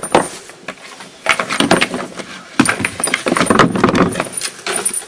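Rustling and clinking of gear being handled in a wooden boat, with scattered sharp knocks, in two long spells.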